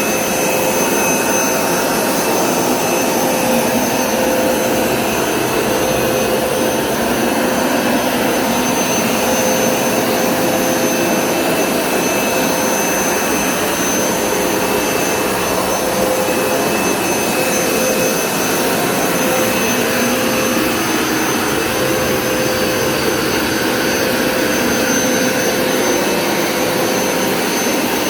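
Hoover Smartwash Pet Complete carpet cleaner running, its suction motor giving a loud, steady roar with a thin, constant whine.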